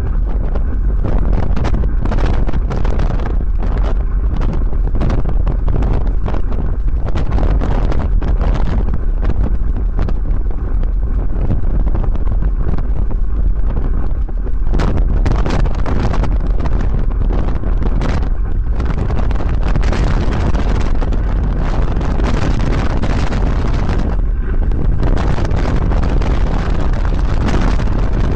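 Wind buffeting the microphone of a camera on a moving bicycle: a loud, steady low rumble with uneven gusts of hiss.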